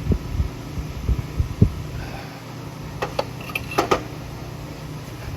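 Light taps and a few sharp, slightly ringing metallic clinks of small engine parts being handled, over a steady low hum.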